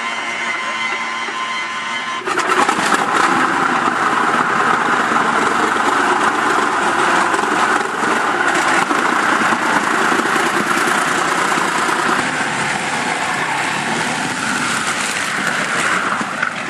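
Large BMW V12 aircraft engine running loud and rough in a vintage chain-drive special. About two seconds in it becomes suddenly much louder and fuller.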